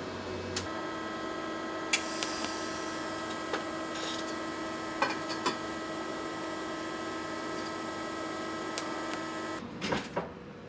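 A steady machine hum made of several held tones, starting about half a second in and cutting off abruptly near the end, with scattered light clicks and taps over it.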